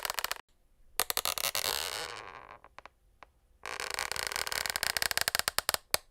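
Wooden parquet floorboards creaking in long crackling creaks made of rapid fine clicks, with short pauses and a few lone clicks between them.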